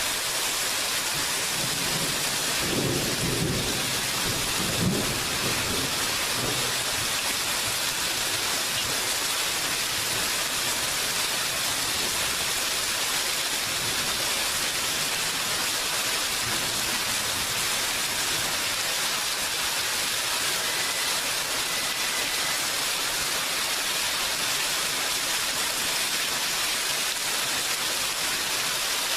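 Steady rain with an even hiss throughout. A low rumble of thunder comes a couple of seconds in and lasts about four seconds, with a short sharp crack near its end.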